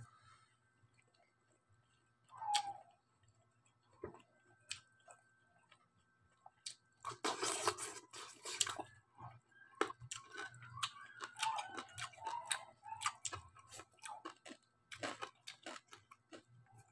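A person chewing and crunching crispy lechon kawali, deep-fried pork belly with crackling skin, close to the microphone. Scattered mouth clicks, with a loud stretch of crunching about seven seconds in and more chewing after it.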